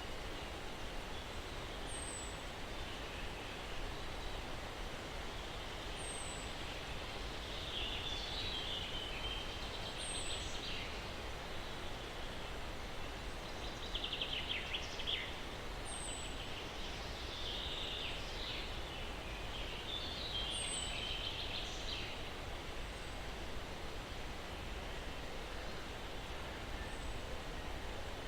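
Steady breeze through pine trees with birdsong. A short, high, falling chirp repeats every few seconds, and trilled songbird phrases come several times through the middle.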